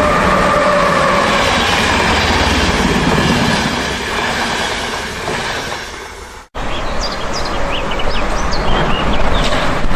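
Train running on rail with a steady rumble and faint tones, fading over a few seconds. It cuts off abruptly about two-thirds of the way in, and then a train rolls on with several short, high-pitched wheel squeals.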